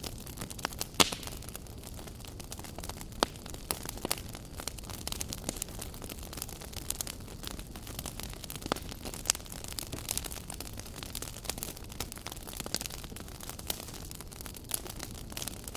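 Wood fire burning in a fireplace, crackling steadily with irregular sharp pops, one loud pop about a second in.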